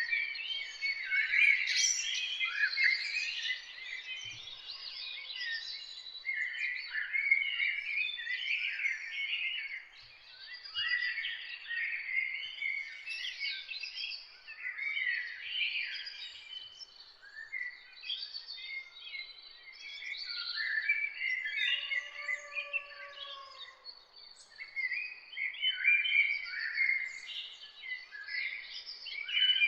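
Several small songbirds singing and chirping at once in a dense, overlapping chorus of quick high trills and tweets, with a faint steady high note underneath. About two-thirds of the way through, a lower, softer call lasting about a second rises and falls beneath the chorus.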